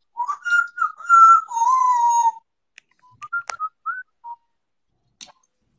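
Parrot whistling: a run of sliding whistled notes for the first two seconds or so, then a few short whistle notes around three to four seconds in, with a sharp click among them.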